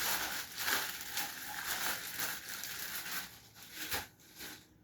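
Crinkling and rustling of food being handled and pressed into place by hand, with many small clicks and a sharp knock about four seconds in.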